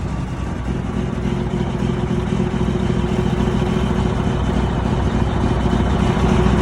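Detroit Diesel 12.7-litre Series 60 inline-six diesel idling steadily just after a cold start, running a lot better than a rough cold engine. It gets slightly louder towards the end.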